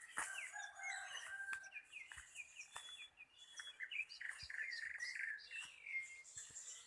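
Several wild birds singing and calling at once, a dense overlapping mix of short chirps, trills and whistled glides, somewhat distant.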